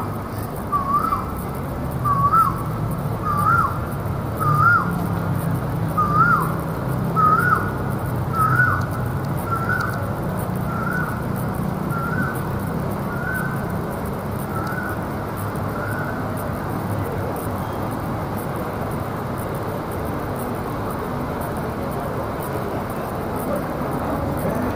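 A bird calling a short rising note over and over, about once a second, the notes creeping up in pitch and fading away about two-thirds of the way through. A steady low hum of city noise runs underneath.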